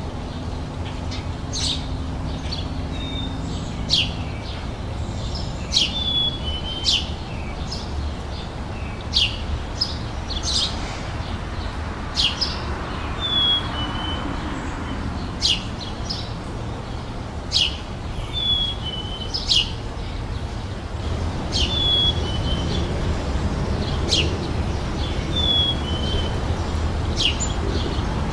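Birds singing outdoors: sharp chirps repeated every second or two, mixed with short falling whistles, over a steady low rumble.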